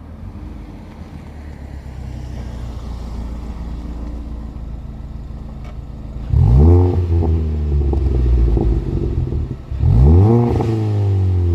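Ford Mustang EcoBoost's turbocharged 2.3-litre four-cylinder, fitted with a Precision 5862 big turbo and an aftermarket catback exhaust, running at low revs, then suddenly going to full throttle about six seconds in with the revs climbing sharply. Near the end there is a brief dip and a second hard climb, as in an upshift.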